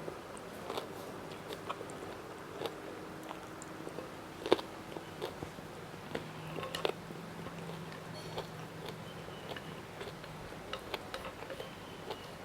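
Close-miked chewing with irregular crisp crunches and mouth clicks, one crunch louder than the rest about four and a half seconds in.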